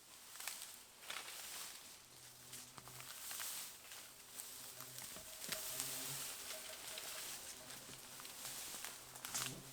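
Rustling and snapping of dry undergrowth being cleared and trodden through, with scattered sharp cracks. A faint low hum comes and goes underneath.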